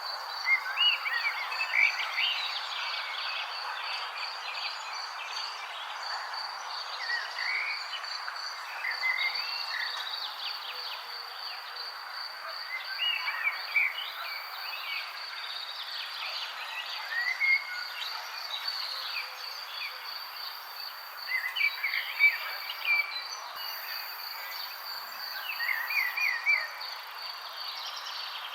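Birds chirping in short runs of quick, gliding notes every few seconds, over a continuous high-pitched pulsing trill and a steady background hiss.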